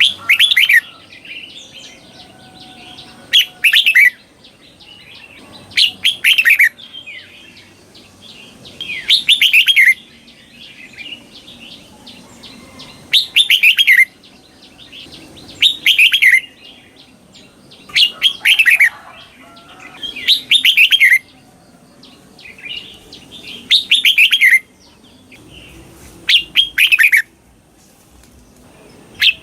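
Red-whiskered bulbul singing its doubled song: loud, short whistled phrases repeated every two to three seconds, each a quick run of falling notes.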